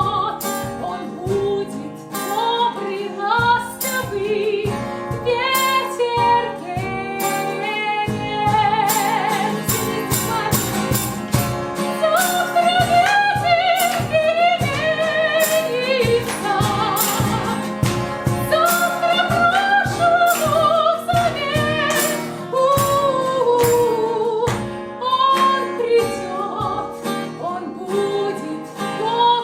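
Song: singing voices with vibrato over instrumental backing with a steady beat.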